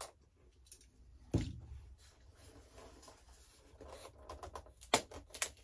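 Small hand tools being handled on a workbench: a knock a little over a second in, soft scraping, then a couple of sharp clicks near the end.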